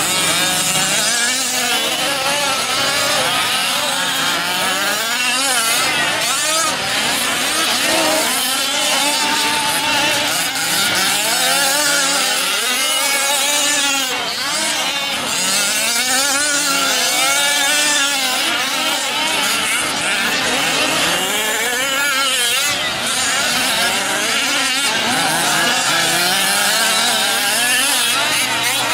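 Several 1/5-scale RC trucks' small two-stroke gasoline engines racing together, their pitches rising and falling over one another as they rev up and back off.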